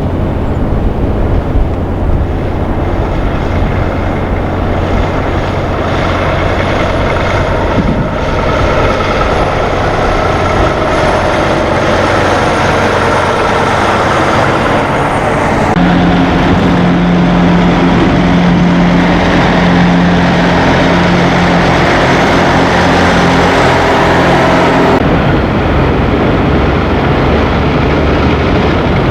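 Semi truck diesel engine running loud and steady, with a slowly falling tone as it moves. The sound changes abruptly about halfway through and again near the end.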